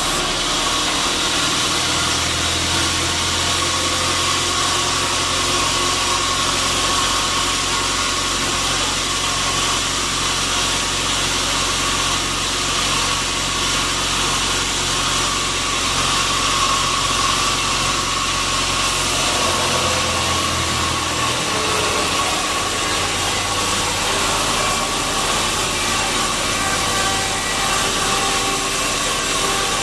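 Sawmill machinery running steadily: a continuous mechanical drone with a low hum that shifts and drops away about twenty seconds in.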